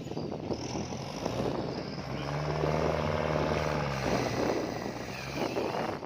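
Kubota L4708 tractor's diesel engine working steadily. Its note swells and rises in pitch about two seconds in, then settles back.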